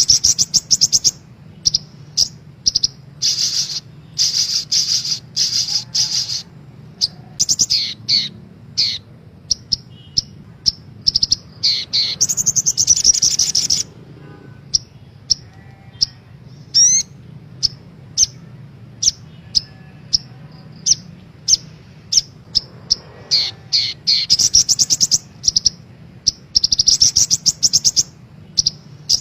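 Crimson sunbird song: high-pitched chirps and rapid trills in repeated bursts, with a longer unbroken trill around halfway.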